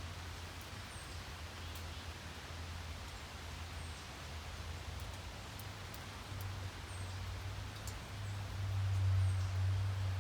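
Steady rain hiss, with a low rumble underneath that grows louder near the end and a few faint, short high chirps.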